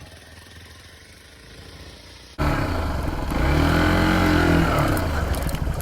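Dirt bike engine: faint and low for about two seconds, then suddenly loud, running and revving with its pitch rising and falling.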